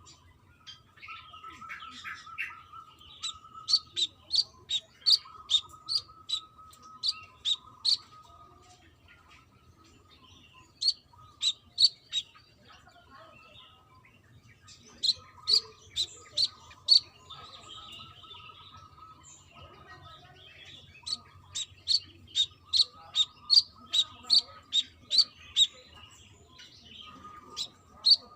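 Brown-throated sunbird singing: runs of sharp, high chirps repeated about twice a second, in several bouts with short pauses between.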